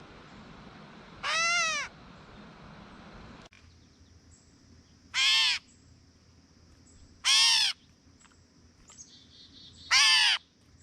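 Gray catbird giving its cat-like mew call four times, each a short nasal call that rises and falls in pitch, spaced a few seconds apart.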